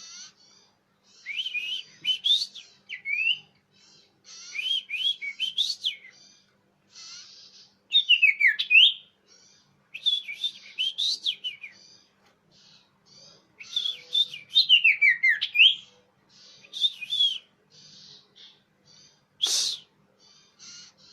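Common iora (cipoh) calling: bursts of clear, loud whistled notes that glide up and down, repeated every couple of seconds with short pauses between phrases. A single sharp click sounds near the end.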